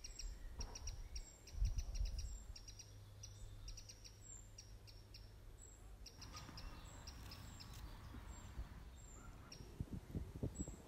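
Small bird chirping over and over, a few short high chirps a second, with a few low thumps about two seconds in and again near the end.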